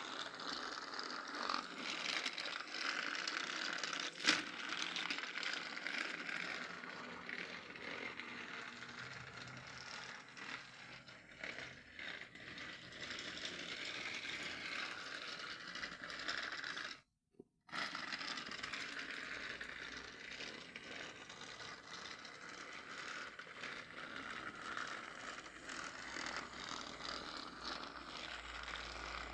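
Battery-powered TrackMaster toy train running: its small motor and gears whir and rattle as the wheels scrape and click along the plastic track. A short silent break a little past halfway.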